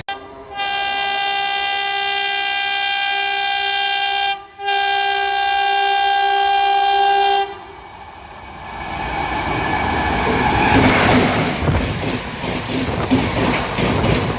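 Indian Railways express train's locomotive horn sounding two long blasts, the second following after a brief break, then the train approaching and passing at speed with rising wheel-and-rail noise and rapid clickety-clack.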